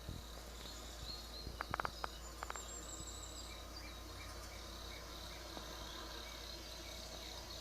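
Woodland ambience from a nature documentary playing on a television: high repeated chirping and trilling over a low steady hum, with a quick cluster of sharp clicks about two seconds in.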